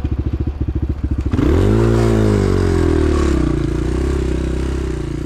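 Pit bike's single-cylinder four-stroke engine chugging at low revs, then revved sharply about a second and a half in, the pitch climbing and easing back to a steady higher run.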